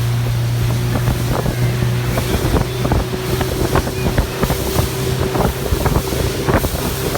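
Mercury 25 hp four-stroke outboard running steadily under way, with wind on the microphone, water noise and frequent short knocks as the small inflatable boat meets the waves.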